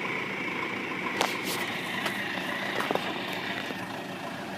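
Vehicle engine running steadily, with a few sharp knocks about a second in and again near the three-second mark.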